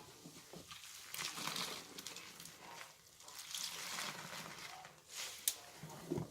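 Soapy, wet blanket being squeezed by hand, the suds and water squishing and crackling in slow swells, with a sharp click about five seconds in.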